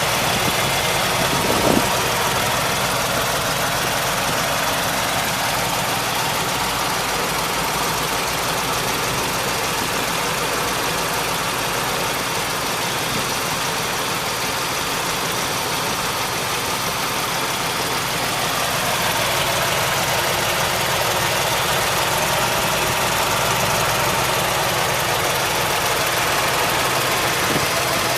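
ZIL-508 6-litre petrol V8 engine of a ZIL-131 truck idling steadily, with one brief click about two seconds in.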